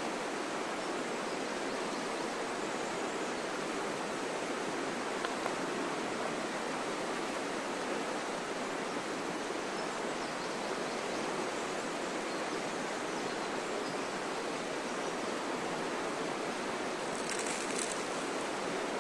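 Steady, even rushing noise, with a few faint high ticks near the end.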